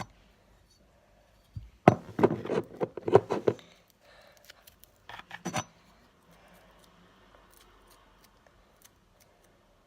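Clicks and clatter of craft-kit materials being handled: a quick run of knocks and taps about two seconds in, a shorter cluster in the middle, then faint rubbing and handling.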